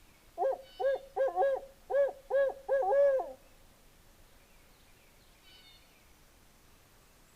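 Owl hooting: a rhythmic series of about eight hoots over roughly three seconds, the last one drawn out, in the pattern of a barred owl.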